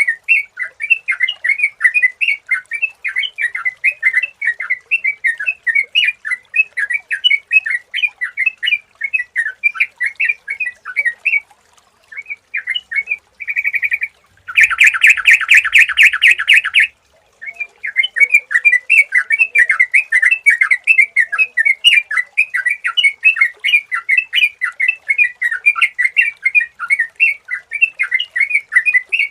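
Yellow-vented bulbul (trucukan) calls: a fast, continuous stream of chattering chirps, broken by a short pause about twelve seconds in and then a loud, buzzy rattling burst for about two seconds before the chirping resumes.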